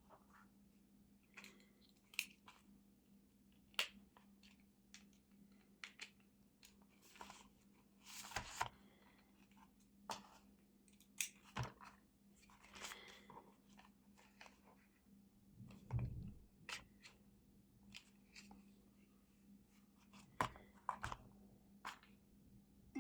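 Faint, irregular clicks, scrapes and rustles of a Braun Series 6 electric shaver's plastic casing and small parts being handled, with a faint steady hum underneath.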